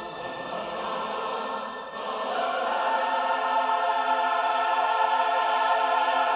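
Orchestral film score with a choir holding a sustained chord, which swells about two seconds in.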